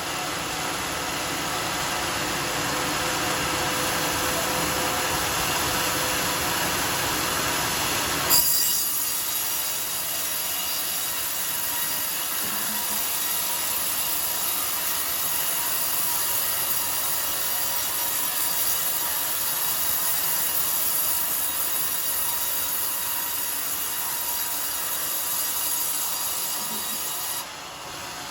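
Circular sawmill blade running through a coconut palm log with a steady, high, hissing sound. About eight seconds in there is a sharp click and the sound abruptly turns brighter, then it drops off near the end.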